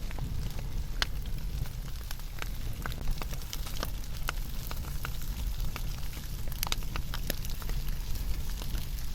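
Wood campfire burning in a fire pit stand, crackling with irregular sharp pops over a low, steady rumble.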